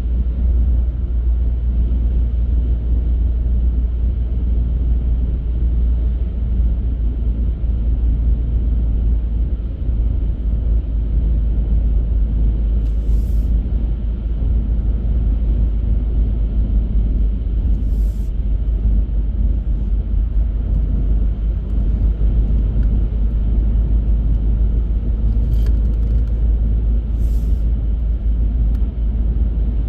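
Car driving at steady speed: a continuous low rumble of road and engine noise. A few brief faint high clicks come through it.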